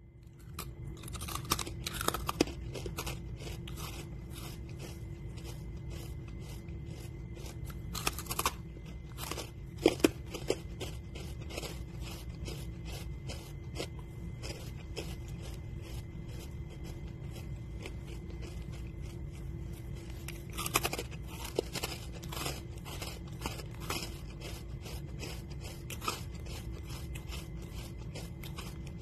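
Close-miked chewing of crispy fried chicken: a dense run of irregular crunches and mouth clicks, with louder crunching bites about 2, 8, 10 and 21 seconds in, over a low steady hum.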